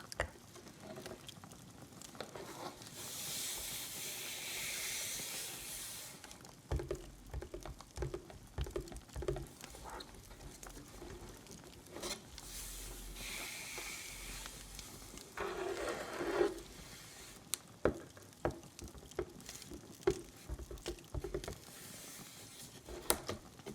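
Soft rustling and handling noises with scattered small clicks and crackles, and a longer hissing swish about three seconds in, with shorter ones near the middle.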